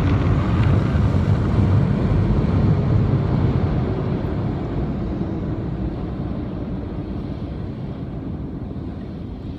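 Automatic car wash air dryer blowers running with a steady, loud rush of air, heard from inside the car, slowly dying away over the last few seconds as the drying cycle ends.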